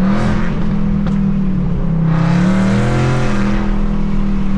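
2024 Mustang GT's 5.0 L V8, breathing through Kooks headers, pulling under load with the revs climbing about two seconds in.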